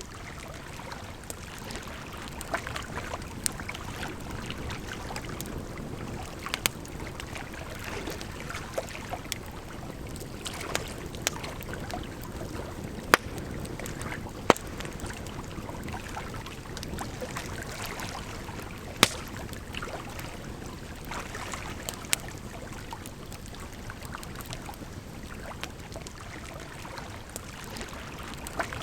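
Campfire crackling, with irregular sharp pops and snaps, a few of them much louder than the rest, over a steady rush of flowing water.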